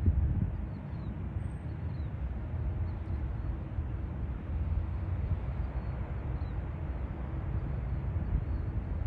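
Steady low rumble of a distant jet airliner's engines, with a faint steady hum running through it.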